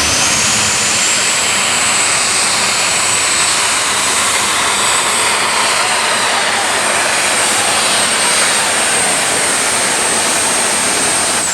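Diesel super stock pulling tractor, an International, running flat out down the pulling track. It is loud, with a high turbine-like whine that rises over the first second or so, holds steady, and falls away at the end.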